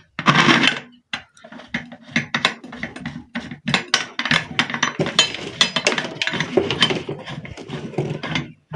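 Pressure cooker lid being fitted and worked tight onto the pot, with a rapid run of metal clinks, scrapes and rattles.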